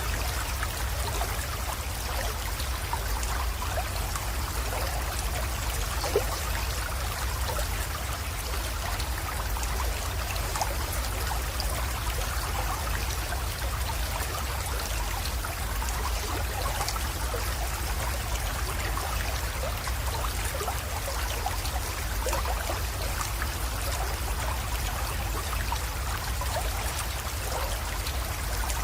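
Small mountain creek flowing and trickling steadily, with one brief tick about six seconds in.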